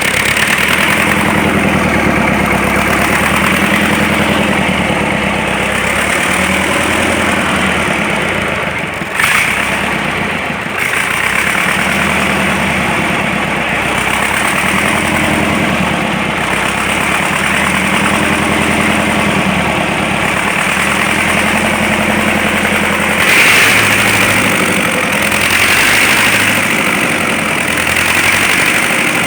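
DT-75 crawler tractor's diesel engine idling steadily just after a major overhaul. Its speed wavers slightly, with a brief dip about nine seconds in.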